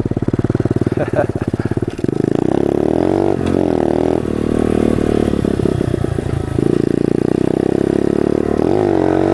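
Pit bike's small single-cylinder engine running as it is ridden. Its pitch rises and falls with the throttle a few times.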